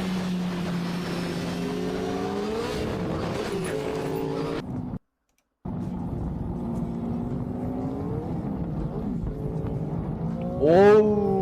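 Motorcycle engine running steadily, its pitch climbing as it accelerates. The sound cuts out for about half a second midway, then the engine resumes and climbs again, with a loud rise in pitch near the end.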